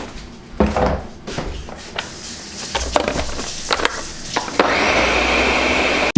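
Irregular wooden knocks and clatter of kitchen things being handled. Near the end, a steady rushing noise runs for about a second and a half, then stops suddenly.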